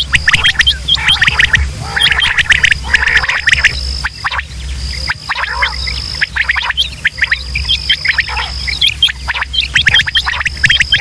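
Many quail calling over one another in dense runs of short, clipped notes. A thin steady high tone runs behind them and breaks off several times, over a low hum.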